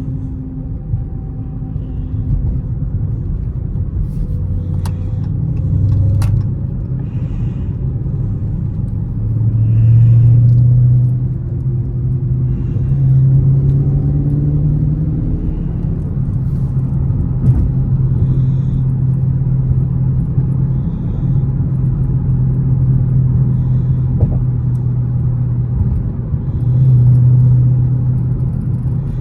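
Dodge Charger Scat Pack's 6.4-litre HEMI V8 running in traffic, a steady low rumble. It swells louder as the car accelerates about ten seconds in, again briefly with a rising pitch a few seconds later, and once more near the end.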